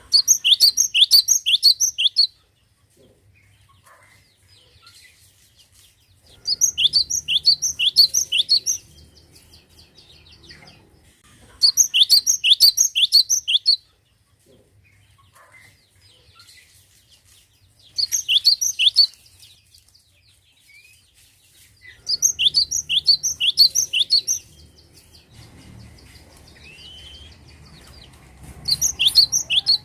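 Cinereous tit (gelatik batu) in full song: six bouts, each a quick run of about eight to ten sharp, falling notes lasting about two seconds, with pauses of a few seconds between bouts.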